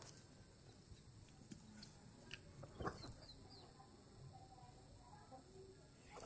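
Near silence with a few faint, short chicken clucks, the loudest about three seconds in.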